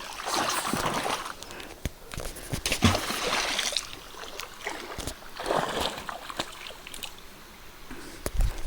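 Creek water splashing and sloshing irregularly around people wading and swimming, with scattered short knocks.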